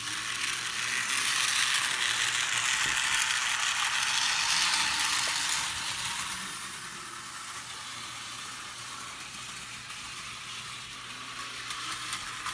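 HO scale Thomas the Tank Engine model locomotive running along the track with its coaches: a steady, high clatter of its small motor gearing and wheels on the rails, louder for the first few seconds and then softer after about six seconds.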